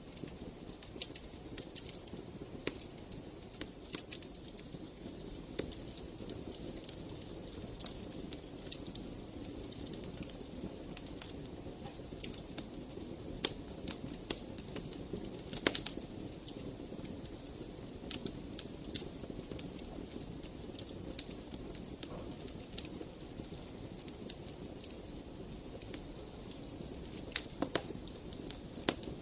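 Wood fire burning in a fireplace: a steady low rush of flame with irregular crackles and sharp pops, a few louder pops near the middle.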